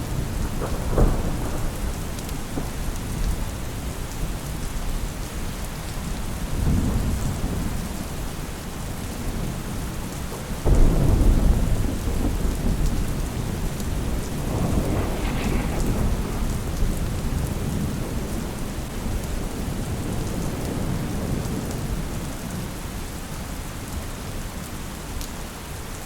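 Steady rain with several low rolls of thunder. The loudest roll starts suddenly about eleven seconds in.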